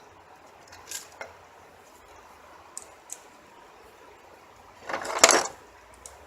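Light metal clicks and clinks, then a louder rattling clatter about five seconds in: hand tools and small metal parts, such as throttle-body screws, being handled and set down.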